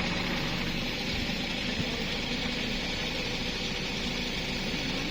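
An engine running steadily at an even speed, with a low hum and a broad hiss and no changes in pitch.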